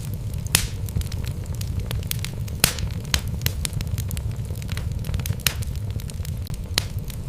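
Wood logs burning in a fireplace: a steady low rumble of the flames with frequent small crackles and a handful of sharper pops.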